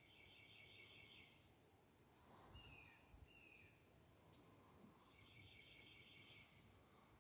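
Near silence outdoors with faint songbird calls: a repeated trilled phrase at the start, a short falling call in the middle, and the same trilled phrase again near the end.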